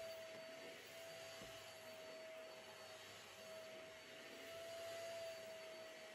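Faint steady hum: one held tone over a soft hiss, like a running household appliance or small motor.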